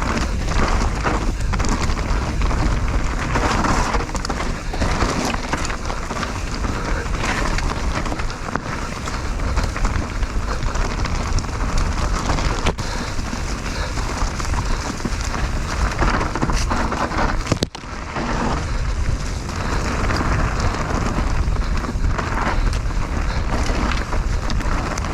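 Mountain bike riding fast down a dirt trail: tyres rolling and crunching over fresh soil, the bike rattling, with heavy wind rumble on the microphone. Near the end there is a brief sudden drop in the noise.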